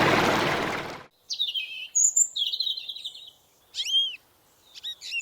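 A loud, steady machine noise fades and stops about a second in. Birds then chirp and whistle in short, scattered calls.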